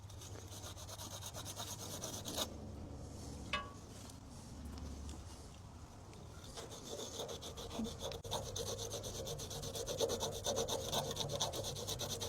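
Abranet abrasive mesh scrubbed back and forth by hand on a corroded battery terminal to clean it to bare metal, in quick rasping strokes that get faster and louder in the second half.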